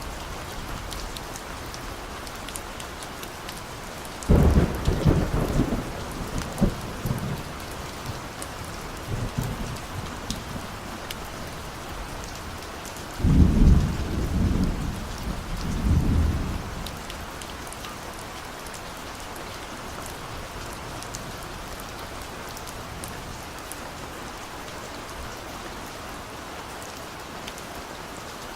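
Steady rain falling, with two rolls of thunder: the first breaks out about four seconds in and rumbles for a few seconds, the second comes about thirteen seconds in and rumbles on for about four seconds before fading back into the rain.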